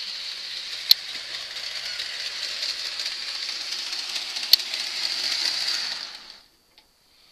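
Pair of old Rivarossi/AHM GP18 HO-scale model diesel locomotives running on track: a steady high whir from the motors and wheels, with two sharp clicks, about a second in and about four and a half seconds in. The sound stops about six and a half seconds in.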